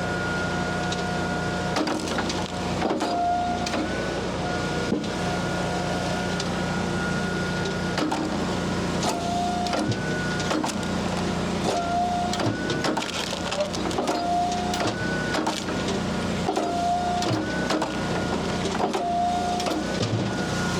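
Firewood splitter running steadily, its hydraulic whine dropping out and coming back at a shifted pitch every second or two as the controls are worked, with scattered knocks of wood.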